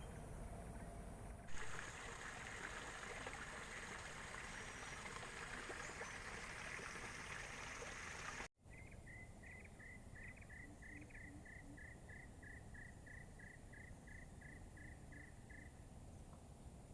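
A steady hiss that drops out suddenly at a cut about halfway through, followed by a single animal chirping in even, short notes, about three a second, for some seven seconds.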